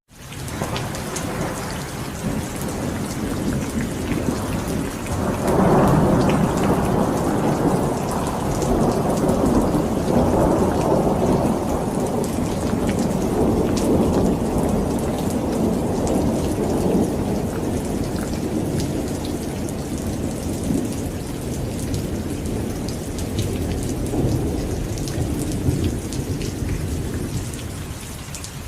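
Heavy rain pouring down steadily, with a long, low rumble of thunder that swells about five seconds in and slowly fades over the following ten seconds or so.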